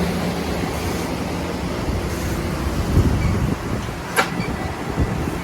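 Passenger train's diesel locomotives running at a station stop: a steady rumble with a low hum. A single thud comes about three seconds in, and sharp clicks come near the end.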